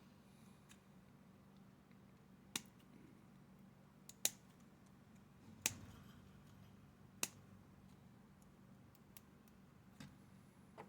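Small cutting tool snipping while trimming model pieces: about half a dozen sharp clicks, each a second or more apart, over a faint steady hum.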